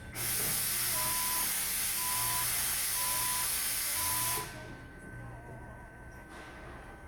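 A loud, steady hiss, like air or gas escaping under pressure, that starts at once and cuts off sharply after about four seconds. While it runs, a short beep sounds about once a second, four times in all.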